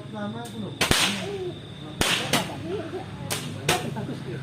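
Small fireworks going off in a series of sharp cracks, about six in four seconds, irregularly spaced.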